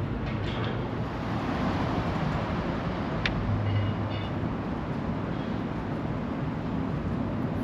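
Steady low rumble of outdoor road traffic, with one sharp click about three seconds in.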